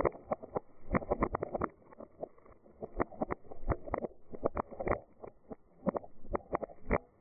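Dried beans rattling and rolling: a fast, uneven run of small clicks in clusters, over a soft rushing sound.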